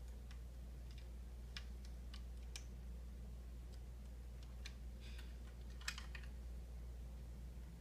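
Scattered light clicks and taps of small parts being handled as landing gear pieces are fitted onto a model airliner, over a steady low hum.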